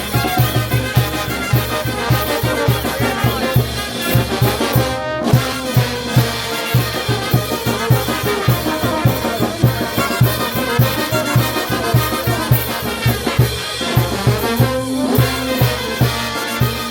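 Peruvian brass band playing, with trumpets and trombones carrying the tune over a steady, quick beat.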